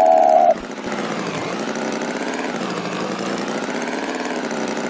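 A brief loud held tone, then an engine running steadily with a buzzing drone whose pitch wavers slowly.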